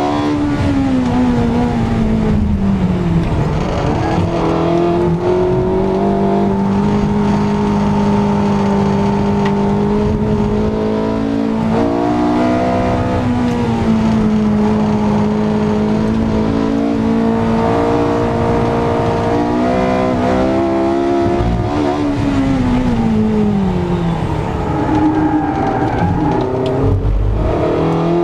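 Porsche 918 Spyder's 4.6-litre V8 being driven hard at speed, its note holding steady for long stretches and dropping in pitch three times: at the start, about twelve seconds in, and again about eight seconds from the end.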